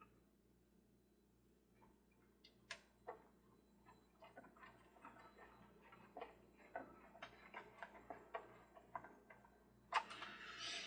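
Faint, irregular small clicks and ticks of hand work with a screwdriver and small screws on a plastic toy base. They grow busier from about four seconds in, with a louder clatter near the end.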